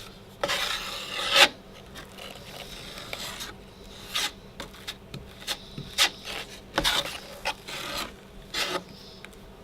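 Drywall mud being scraped and spread with a blade around a hole in drywall. There is one long scrape about a second in, then a series of short, irregular scrapes.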